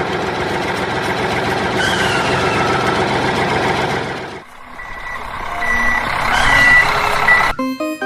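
A heavy vehicle's engine running for about four seconds, then a reversing beeper giving several short high beeps while the engine noise builds again. Music cuts in near the end.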